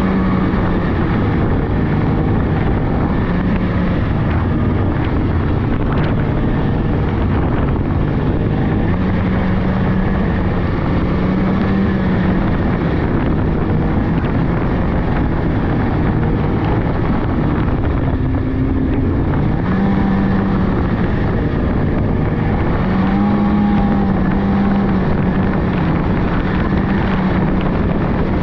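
Polaris 600cc snowmobile engine running steadily while riding, its pitch rising and falling a little with the throttle.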